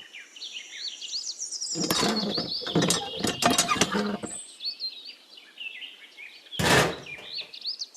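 Small birds chirping in quick repeated calls. From about two to four seconds in, a run of clattering, scraping noises sounds over them, and a short burst of noise comes near the end.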